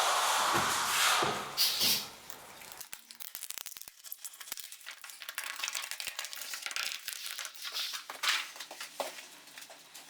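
Plastic film being pulled off and crumpled, rustling loudly for about the first two seconds, then a long run of fine crinkling crackles.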